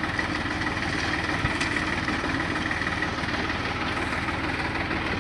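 Deutz-Fahr farm tractor's diesel engine running steadily with an even low throb, with a steady high whine over it.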